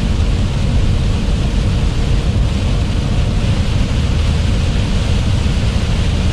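Steady low rumble and hiss of a truck driving a wet highway in heavy rain, heard from inside the cab: engine running, tyres on wet pavement and water spray.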